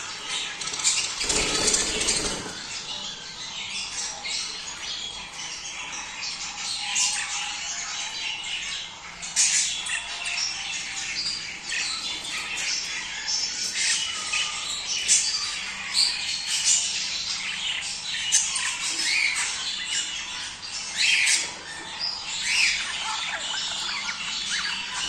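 A flock of budgerigars chattering continuously, with many overlapping chirps, warbles and squawks, the kind of sound played to stimulate breeding. A brief low rustle about a second in.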